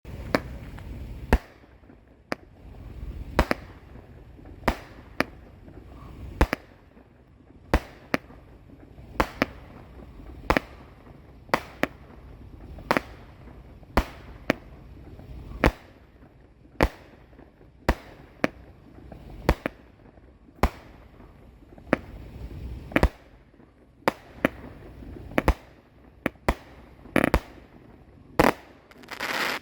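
A 200-gram consumer firework cake firing its shots one after another, a sharp bang every half second to second and a half, with crackling between them.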